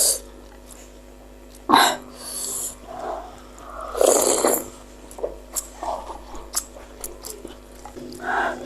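Close-miked eating sounds: wet chewing with many small mouth clicks, broken by several louder slurps or breaths.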